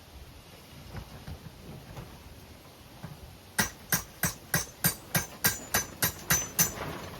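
Blacksmith's hand hammer striking hot steel on an anvil: eleven quick, evenly spaced blows about three a second, each with a short metallic ring, starting about halfway through.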